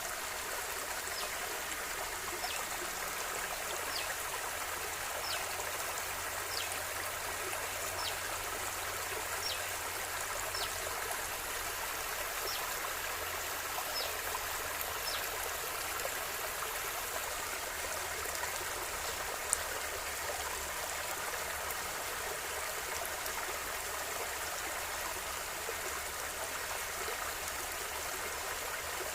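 River water flowing steadily with an even rushing and trickling. Through the first half a short, high, falling chirp repeats about every second and a half, and a single sharp click comes about two-thirds of the way in.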